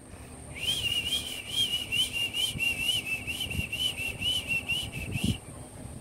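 A hwamei (wambi) songbird whistling a fast run of repeated rising-and-falling notes, about four a second, which stops suddenly after nearly five seconds.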